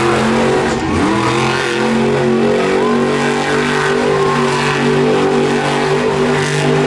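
Monster truck's supercharged V8 engine running loudly, with a few quick revs rising and falling just after the start, then holding at a steady speed.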